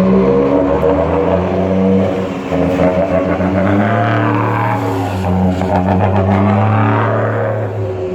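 Vehicle engine running through its exhaust with a deep, steady drone; the pitch rises slightly about four seconds in.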